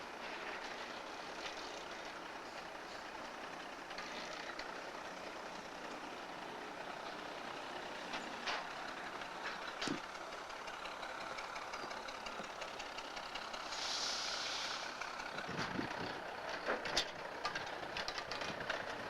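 Diesel switcher locomotive running during coal-car switching, a steady mechanical noise with scattered sharp clanks. About 14 seconds in there is a short hiss of air, and a few heavier knocks come near the end.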